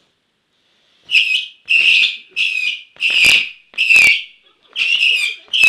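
A run of whistling fireworks going off one after another: about eight shrill, wavering whistles of roughly half a second each, starting about a second in, with a few sharp cracks near the end.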